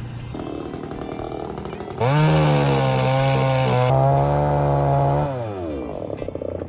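An engine running at a low, steady speed revs up sharply about two seconds in, holds high for about three seconds, then drops back down.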